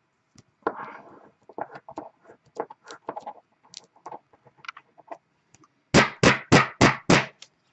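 Rustling and light clicking of trading cards and packaging being handled, then five quick, loud taps about a third of a second apart near the end.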